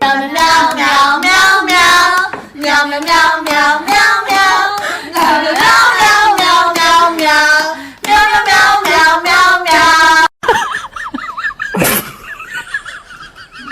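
High voices singing with rhythmic hand clapping. It breaks off suddenly about ten seconds in, and a quieter wavering call follows.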